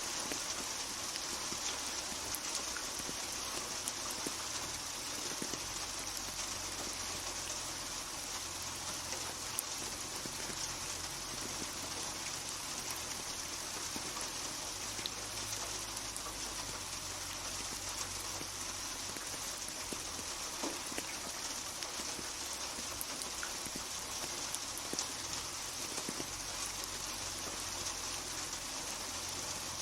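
Steady rain with individual drops pattering on a hard surface, an even hiss with scattered close drop ticks.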